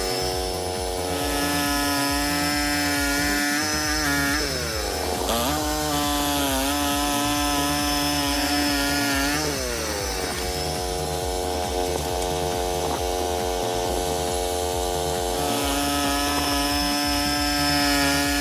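Portable sawmill cutting a log: a small engine and saw running steadily under load, with the pitch sagging and recovering twice, about four and nine seconds in.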